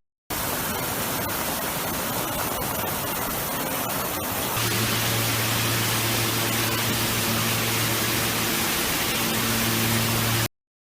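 Steady, even hiss of noise. About halfway through, a steady low hum joins it. Both cut off abruptly near the end.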